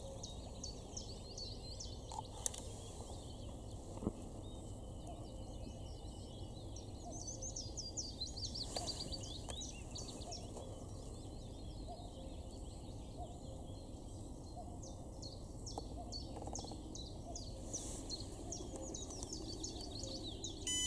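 Songbirds singing, with many quick chirps and trills, over steady low outdoor background noise.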